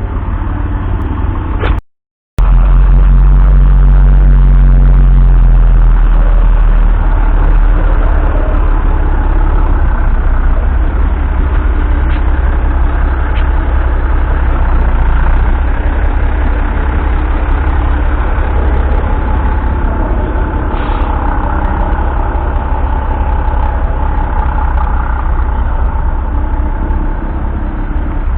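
Mack Thermodyne 11.6-litre six-cylinder diesel of a 1965 Mack 861T truck, running steadily with a loud, low engine note. The sound breaks off briefly about two seconds in, and the engine is loudest just after it.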